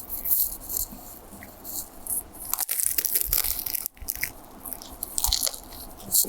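Crunching and chewing a bite of Ropis, crispy spring roll pastry wrapped around banana: a string of irregular crisp crunches.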